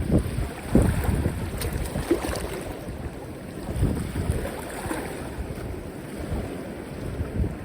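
Sea waves washing, with wind buffeting the microphone in repeated low gusts, the strongest about a second in.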